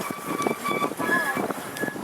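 Seaton Tramway's narrow-gauge electric tram running along the line, rattling and knocking over the track, with a few brief thin high tones over it.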